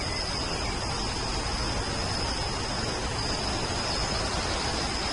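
Steady rain falling, an even hiss, with a continuous high, thin tone over it.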